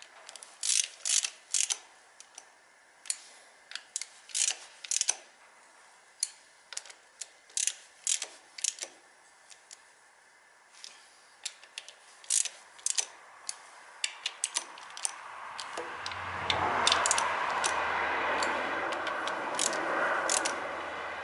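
Sharp, irregular metallic clicks of hand tools, with ratchet-wrench work on the engine. From about 15 seconds in, a steady mechanical running noise with a low hum builds up and continues under the clicks.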